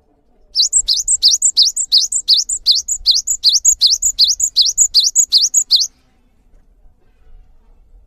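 Java sparrow (gelatik) song: a fast series of high, upward-sweeping chirps, about three to four a second, that runs for about five seconds and then stops. It is a recording used to coax caged gelatik into singing.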